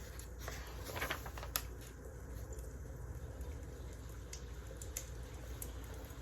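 Firewood burning in a fireplace, crackling, with a few sharper pops about a second and a second and a half in, over a steady low rumble.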